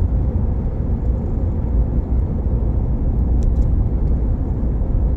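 A vehicle cruising along a highway: steady low engine and road rumble.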